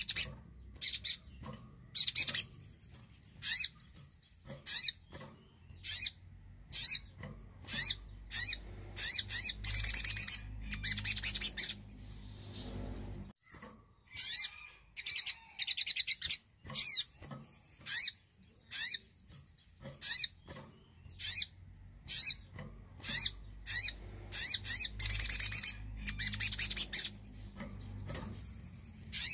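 Brown-throated sunbird (sogon) singing: sharp high chirps about once a second, breaking twice into fast rattling trill runs.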